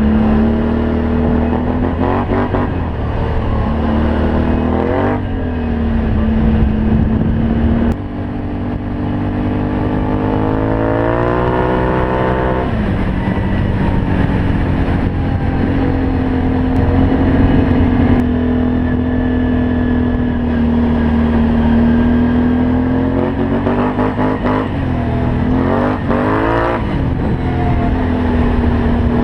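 Can-Am Outlander 500 ATV's V-twin engine through a Yoshimura aftermarket exhaust, riding at steady throttle. It revs up in one long rising pull partway through, and gives several quick throttle blips near the end.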